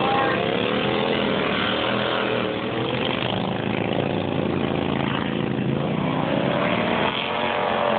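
Two-cylinder racing lawnmower engines running hard, their pitch rising and falling several times as the mowers speed up and slow for the turns.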